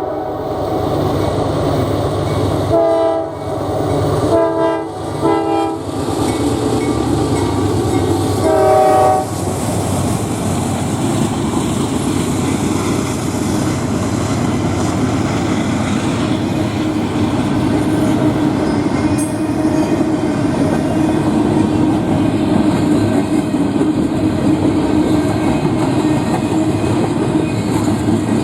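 Norfolk Southern freight train at a grade crossing: the lead GE AC44C6M locomotive's air horn sounds several blasts, the last and loudest ending about nine seconds in. After that, the train's wheels roll steadily over the rails with a clickety-clack as the cars pass.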